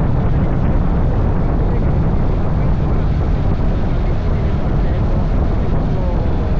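Steady wind rush on the camera's microphone while riding a Honda NC750X DCT, its parallel-twin engine running under the noise at an even speed.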